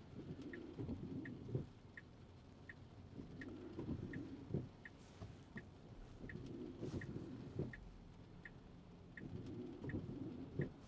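A car's turn-signal indicator ticking steadily inside the cabin, about three ticks every two seconds, with a soft low swish recurring every three seconds or so.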